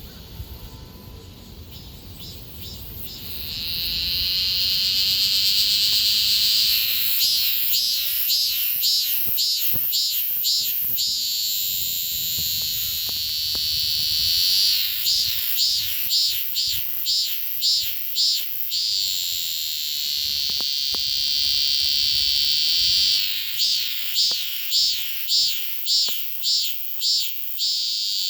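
Cicada singing at very close range: a loud, high, shrill buzz that holds steady for a few seconds and then breaks into runs of rhythmic pulses at about two a second, the pattern repeating three times.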